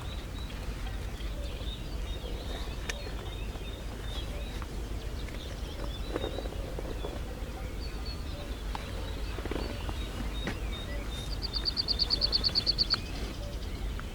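Common kestrel giving a rapid series of about a dozen shrill 'kee-kee-kee' notes near the end, typical of a kestrel harassing a golden eagle, over a low steady rumble.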